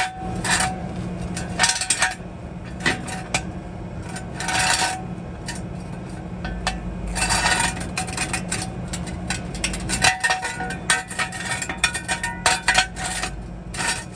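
Metal clanking and clinking: an irregular string of sharp knocks, many with a short metallic ring, from steel tools and parts being handled. A low steady hum runs beneath and stops about ten seconds in.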